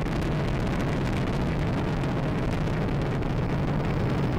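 Atlas V 401 rocket in first-stage ascent, its RD-180 engine at full thrust heard as a steady, low, unbroken noise.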